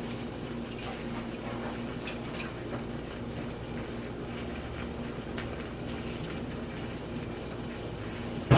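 Steady low hum with a few faint clicks of utensils against dishes, and one loud knock near the end.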